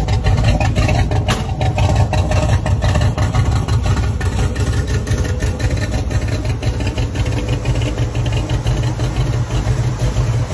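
Classic Ford Mustang fastback's engine running at a steady, deep idle, loud and unchanging, with no revving.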